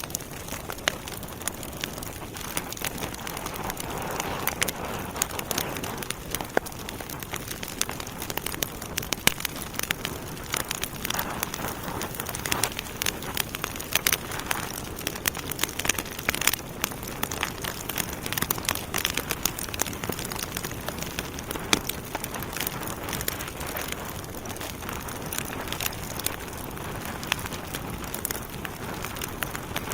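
Wood fire burning in a fireplace: a steady hiss with many sharp, irregular crackles and pops from the burning logs.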